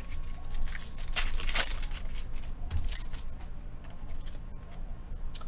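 Trading cards and a foil pack wrapper being handled: irregular rustling and crinkling, loudest just after a second in.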